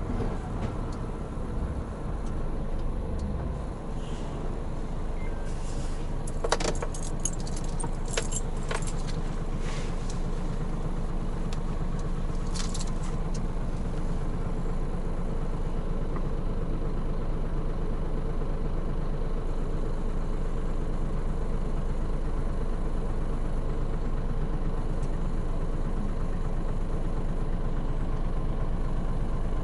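Hino Profia heavy truck's diesel engine running steadily while driving. Short metallic jingles and rattles come in a cluster about six to nine seconds in, and again around thirteen seconds.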